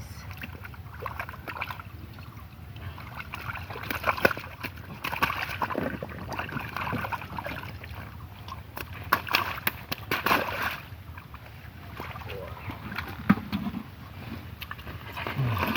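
Muddy river water splashing and sloshing irregularly as it is worked by hand, with sharper splashes about four seconds in, again around nine to ten seconds, and near thirteen seconds.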